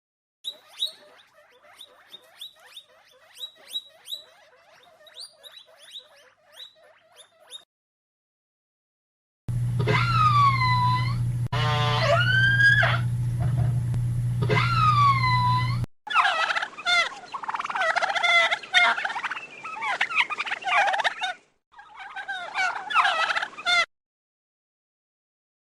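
Three separate bursts of animal calls, one after another. First comes a run of rapid short chirps and clicks. Then come loud calls that sweep down in pitch over a steady low hum, and last a dense stretch of overlapping calls that breaks off twice.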